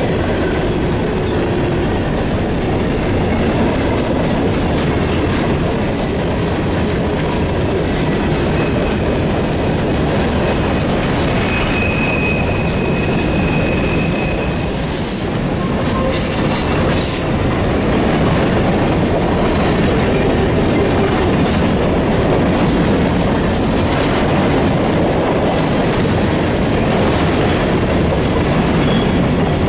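Freight train cars rolling past, a loud steady rumble and clatter of wheels on rail, with a brief high wheel squeal about halfway through.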